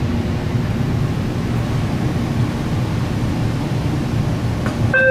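Steady low rumble inside a Metra commuter railcar. Right at the end, the first note of the door-closing chime begins.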